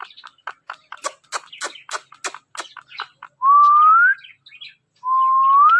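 Pet ringneck parrots give a quick run of sharp clicking chirps, then two long, clear whistles, each rising a little in pitch at the end.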